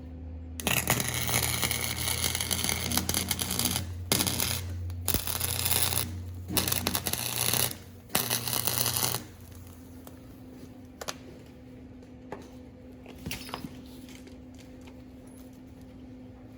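Electric welding arc crackling as beads are laid on a steel exhaust pipe: several runs of a few seconds each with short pauses between them, stopping about nine seconds in. A steady low hum and a few light clicks go on after the arc stops.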